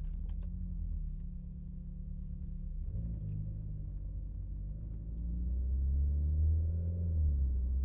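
Renault Megane RS Trophy's turbocharged four-cylinder engine heard from inside the car while driving, a low engine note. There is a short break about three seconds in, then from about five seconds in it pulls louder, rising in pitch, and drops back near the end.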